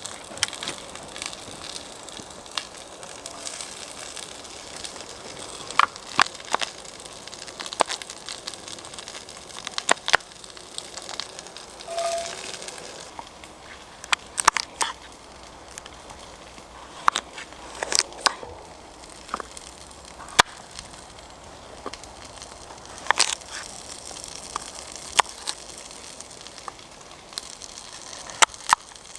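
Wood campfire crackling: a steady hiss broken by irregular sharp pops.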